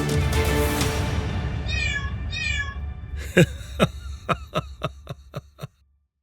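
Cartoon soundtrack: background music fades out, two short cat meows come around two seconds in, then a run of sharp knocks, each dropping in pitch, comes faster and fainter until the sound stops.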